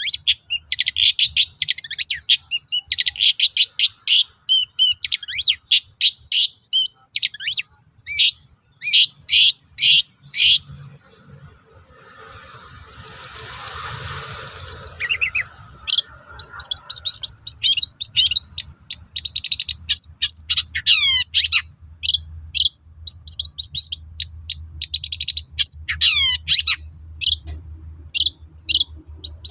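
Long-tailed shrike singing a loud, fast song of sharp chirps and stuttering high notes, with a quieter rapid trill about halfway through and several falling whistled slurs later on.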